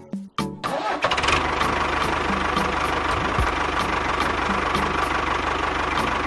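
A small engine sound starts about a second in and runs steadily, with a fast even pulsing.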